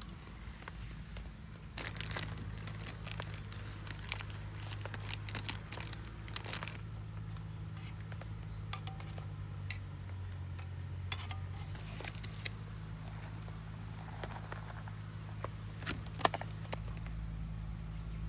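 Plastic wrapping crinkling and rustling as food is handled, with scattered small clicks and two sharp knocks close together about three-quarters of the way through.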